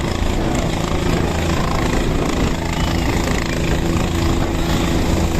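Helicopter running steadily, a continuous low engine and rotor drone with a fixed pitch.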